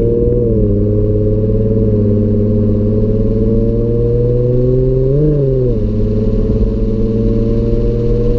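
Car engine running at a steady cruise, heard from inside the cabin, with a brief rise and fall in pitch about five seconds in.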